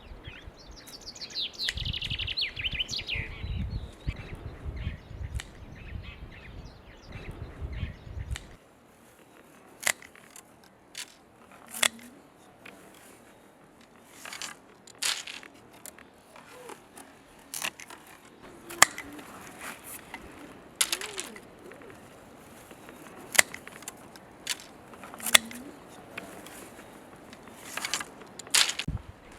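Sharp single snips, one every second or two, most likely pruning shears cutting, after a stretch of low rustling noise with a bird chirping briefly about two seconds in.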